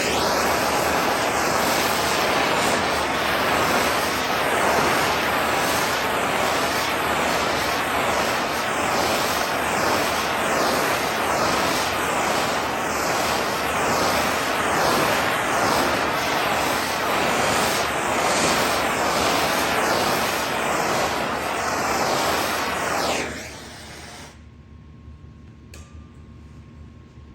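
Loud steady rushing of a motor-driven air blower running for about 23 seconds, then switched off.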